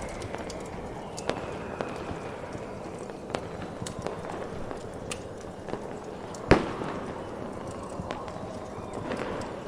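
Fireworks going off, with scattered sharp cracks and pops and one loud bang with a deep boom about two-thirds of the way through, over a steady rushing background of snowstorm wind.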